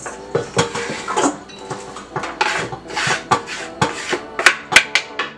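Cooking utensils and pots clattering: an irregular run of sharp metal clicks and knocks, several in quick succession near the end.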